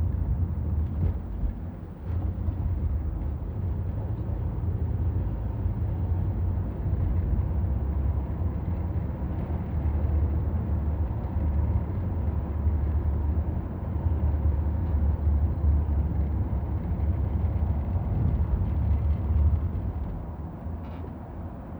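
Steady low rumble of a moving ride through city streets, the noise of travel and wind on the microphone, with no clear events standing out.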